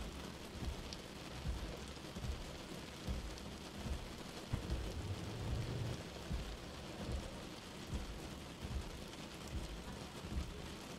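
Steady hiss of rain, with soft low thuds one to two times a second.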